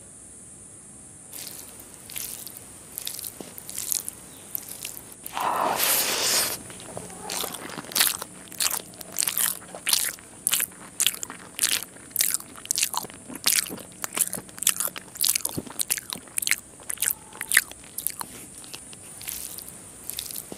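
Close-miked eating of rice and egg curry by hand: chewing with repeated short, sharp mouth clicks and smacks, about one or two a second. About five seconds in there is a louder, second-long squish of the gravy and rice being mixed by hand.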